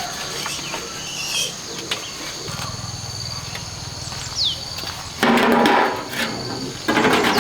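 Steady high-pitched insect drone, with a short falling whistle just past the middle. Near the end come two loud noisy sounds, each under a second long, that are louder than the drone.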